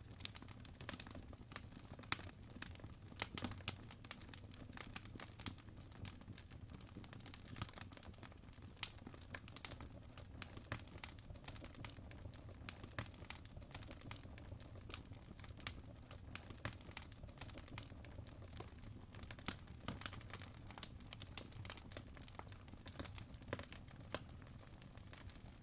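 Fireplace fire crackling softly, with scattered irregular pops and snaps over a steady low rumble.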